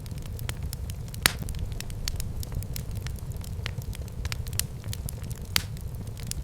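Wood fire burning in a fireplace: a steady low rumble with constant small crackles and two loud pops, about a second in and near the end.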